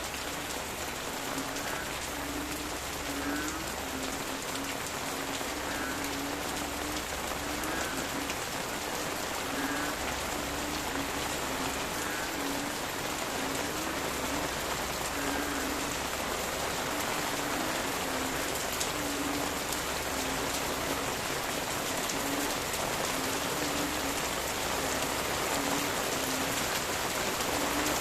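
Steady rain pattering on leaves, with frogs calling in the background: short low croaks repeating about once or twice a second.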